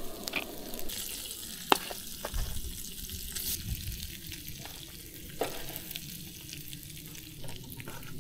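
Scrambled eggs sizzling in bacon grease in a pan, a steady hiss broken by scattered clicks and taps. The loudest tap comes a little under two seconds in.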